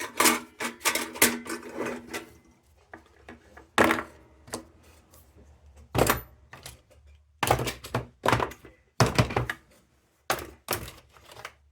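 Tin lantern parts knocking and clicking together as they are handled during reassembly: a quick run of knocks at first, then single sharp knocks spaced a second or so apart.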